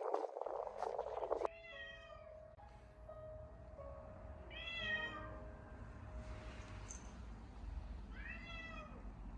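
A cat meowing: three drawn-out meows about three seconds apart, each rising and then falling in pitch, over faint background music.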